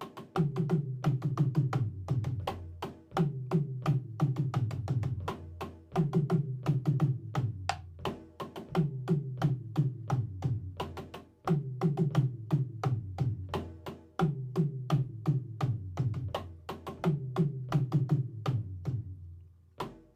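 Drum kit played by a beginner in practice: a steady groove of quick strikes, the phrase repeating about every three seconds.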